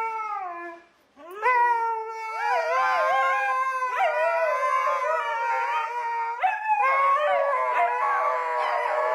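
Dog howling: a short falling howl, then long drawn-out, wavering howls, with a second howling voice overlapping over the last couple of seconds.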